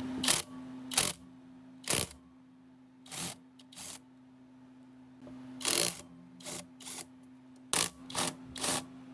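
A small electric motor hums steadily while about a dozen sharp clicks and taps from hand tool work on metal fall at irregular intervals.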